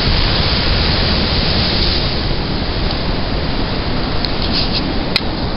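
Storm wind and heavy surf make a steady roar of noise, with wind buffeting the microphone, during a coastal winter storm with a storm surge. A few faint ticks come near the end.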